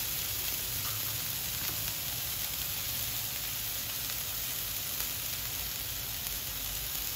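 Beef burger patties sizzling steadily in hot oil on a flat pan, frying on their second side after the flip.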